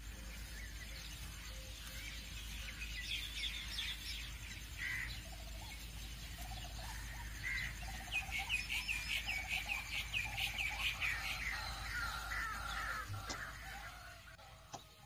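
Birds calling and chirping, with a quick run of short repeated high chirps from about eight to eleven seconds in, over a faint steady low hum.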